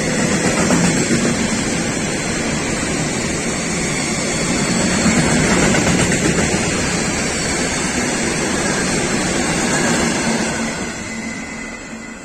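Freight train of covered wagons rolling past, with a steady rumble of steel wheels on the rails. It fades away over the last couple of seconds as the end of the train draws off.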